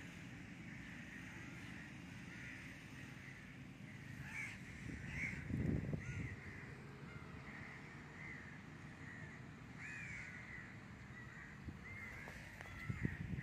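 Birds in the trees calling over and over in short arched calls. Under them runs a steady low rumble that grows louder for a moment about six seconds in and again near the end.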